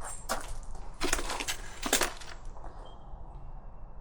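Clicks and light rattles from handling a small electrical-connector cleaning tool set, loudest about one and two seconds in.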